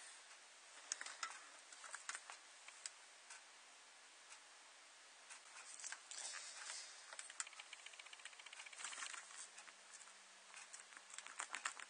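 Faint clicks and light rustling of hands handling small plastic camera parts and packaging, with a brief run of fast ticks about seven seconds in.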